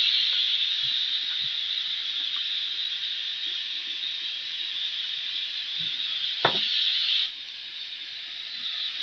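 Oil steadily sizzling in a kadai of frying black mushrooms and spices, with one sharp knock a little after six seconds. The sizzle drops away suddenly about seven seconds in.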